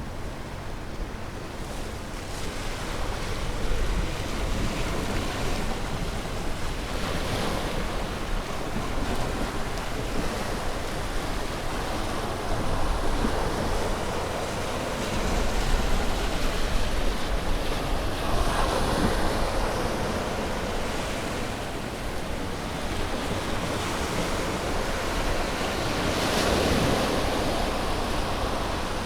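Sea waves breaking and washing on a shore: a steady surf rush that swells and ebbs every few seconds, with some wind noise on the microphone.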